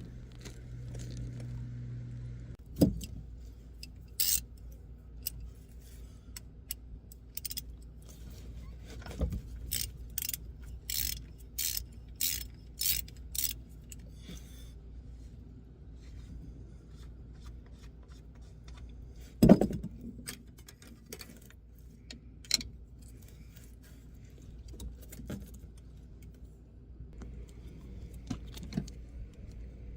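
Hand tools clinking and knocking against metal on a truck's driveline, with a quick run of sharp clicks about ten seconds in and two louder knocks.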